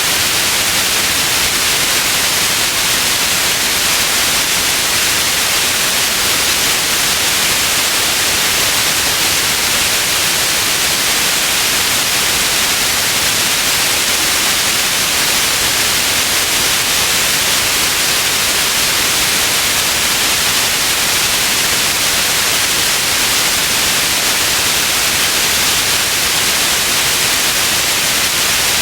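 Steady white noise, a constant hiss with most of its energy in the upper frequencies and no change throughout.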